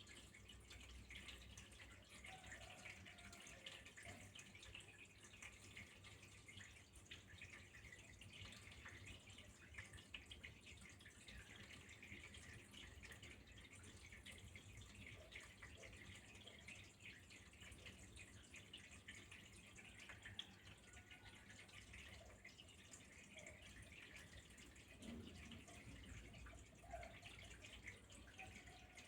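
Faint trickle of running water with a dense patter of small drips, steady throughout.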